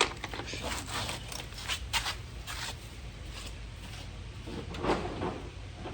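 Rummaging through sockets and hand tools: scattered metal clicks and clinks, with a sharp click at the start and a few short rattles after it.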